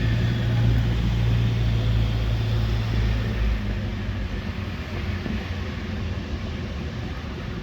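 Railway locomotive running with a steady low drone that weakens about halfway through, leaving a quieter rumble.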